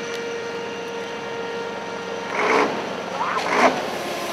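An engine running steadily at an even pitch, with two short shouts from voices in the second half.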